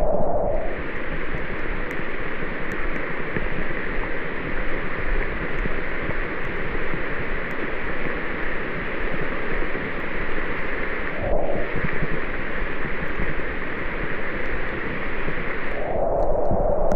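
Heavy tropical rain falling steadily in a rainforest, a dense even hiss that briefly thins out about eleven seconds in and again near the end.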